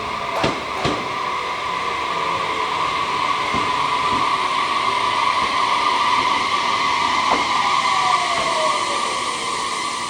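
Train pulling in and braking at a station platform, with a steady rushing squeal and whines that slowly fall in pitch. Two sharp wheel clacks over rail joints come about half a second and a second in.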